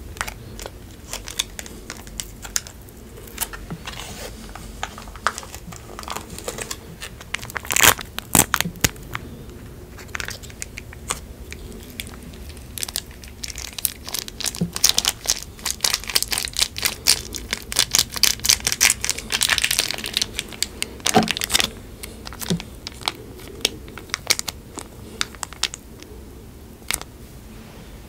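Paper food wrapper being crinkled and torn in irregular crackling bursts, busiest in the middle stretch.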